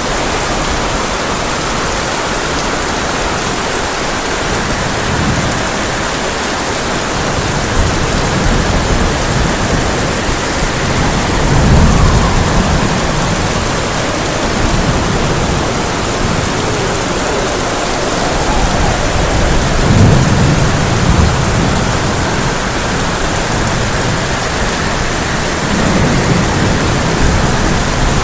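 Heavy rain drumming on a tin roof as a steady dense hiss, with low rolls of thunder swelling up three times, the loudest about twelve and twenty seconds in.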